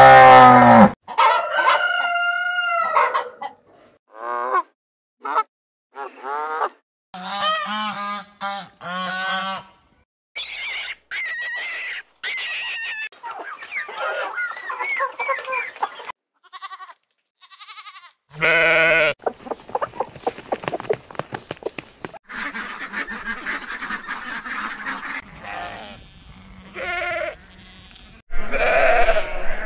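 A series of different animal calls, one after another with short gaps, many of them bird calls from farm fowl.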